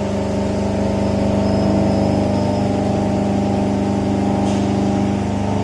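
CNC vertical machining center face milling: a 50 mm face mill cutting a 0.5 mm pass as it feeds along X, with flood coolant on. A steady hum with a strong low tone and no change in pitch.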